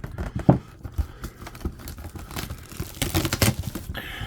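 Cardboard box being handled and opened by hand: a run of irregular rustles, crinkles and light knocks, busiest about three seconds in.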